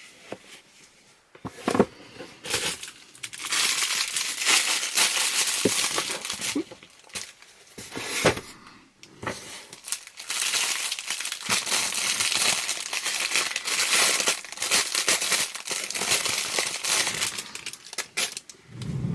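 Packaging crinkling and rustling in long stretches as items are unwrapped and handled from a subscription box, with a few short knocks of things being set down.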